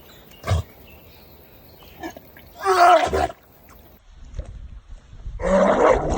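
A dog giving short, roar-like grumbling calls: a brief one about half a second in, a longer wavering one around the middle, and another near the end.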